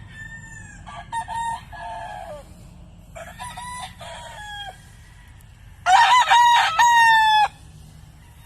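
Several roosters crowing one after another, three at moderate loudness in the first five seconds, then a much louder close crow about six seconds in that lasts about a second and a half.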